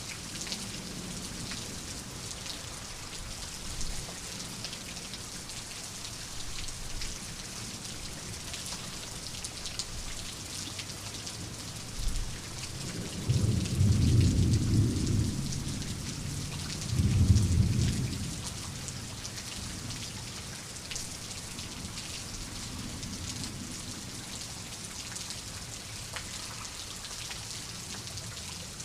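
Steady heavy rain pattering on a surface, with a roll of thunder about halfway through that rumbles low in two swells and then fades back into the rain.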